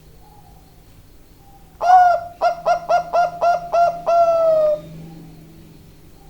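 Bangkok-strain zebra dove (perkutut) cooing one full song phrase: an opening note, a quick run of about six short notes, then a long drawn-out final note that falls slightly.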